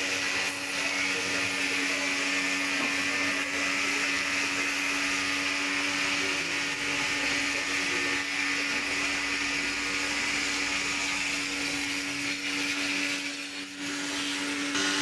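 A motor-driven machine running steadily with a constant hum and a high hiss, dipping briefly near the end.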